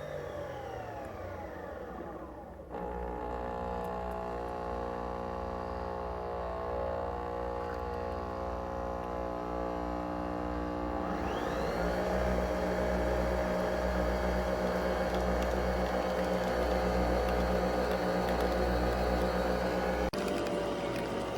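Nespresso Vertuo Pop+ coffee machine running through a brew cycle: a steady electric hum of several tones, then a whine that rises about halfway through and holds steady as the capsule spins. Near the end the sound changes and the tone slowly falls.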